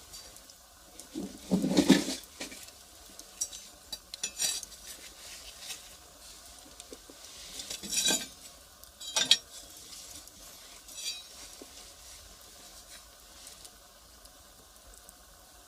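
Firewood fire crackling, with scattered sharp pops; the loudest come about two seconds in and again around eight and nine seconds, and the crackling thins out near the end.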